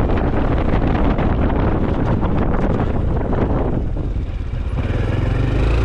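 Honda CT125 Hunter Cub's air-cooled 125cc single-cylinder engine and exhaust running under way, with wind rushing over the microphone. The wind noise fades about four seconds in, leaving the engine's low, steady note.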